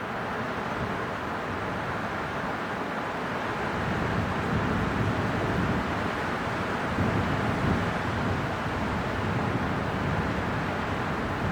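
Winter wind blowing steadily, swelling into stronger gusts with a low rumble from about four seconds in.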